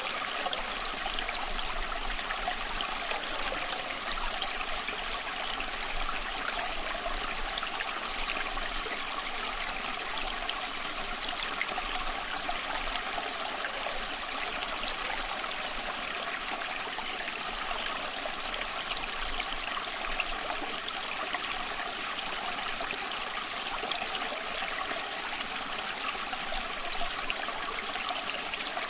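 Creek water running steadily: a continuous rushing flow with fine trickling detail that does not change.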